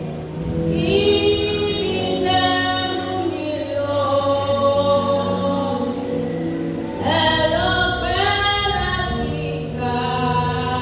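A woman singing a slow gospel worship song in long held notes, with other voices joining in.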